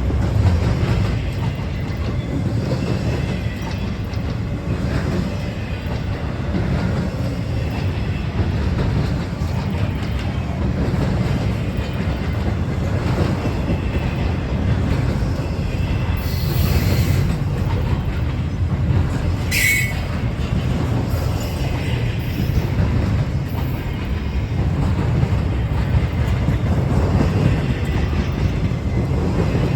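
Freight train cars rolling past with a steady low rumble of wheels on rail. A brief high wheel squeal comes about two-thirds of the way through.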